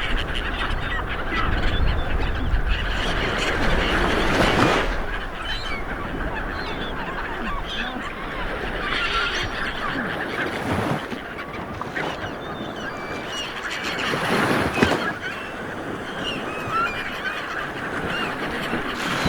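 Ocean waves washing in, surging every few seconds, with birds calling repeatedly over the surf.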